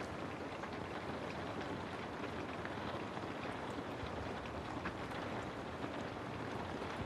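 Steady rain, an even hiss with scattered faint ticks of individual drops.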